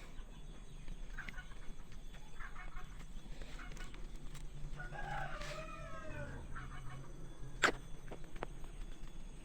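Chickens clucking, with a rooster crowing once about five seconds in. A single sharp knock comes near the end.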